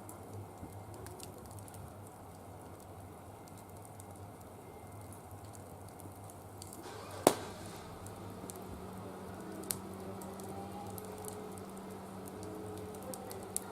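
Small wood fire in a barbecue grill crackling softly with scattered faint ticks, one sharp loud pop about halfway through and two smaller pops later. A faint steady low hum comes in just after the loud pop.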